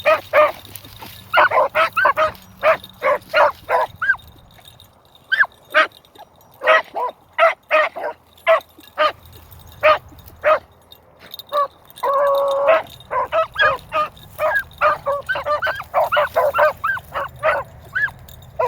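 Beagle hounds yelping in quick runs of short, high yips, with one longer drawn-out howl about twelve seconds in.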